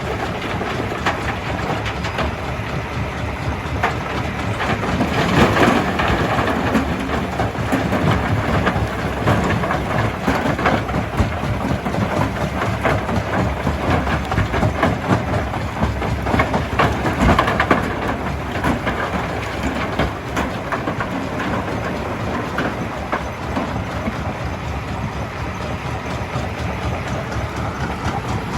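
Jaw crusher running and crushing rock: a steady heavy mechanical rumble under a continuous clatter of stones cracking and knocking.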